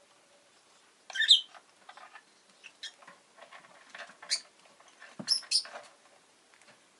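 Rosy-faced lovebird giving short, sharp chirps and squeaks at irregular intervals, the loudest about a second in and two more close together about five seconds in.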